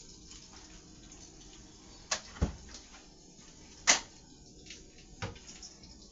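A few sharp clicks and knocks of kitchenware being handled: four short taps spread over a few seconds, the loudest about four seconds in.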